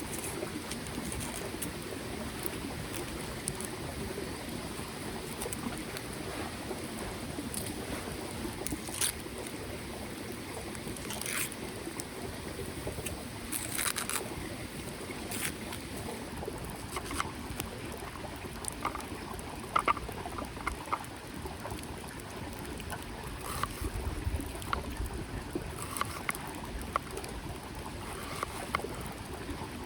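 Small mountain stream flowing steadily, with scattered short clicks and light knocks over it.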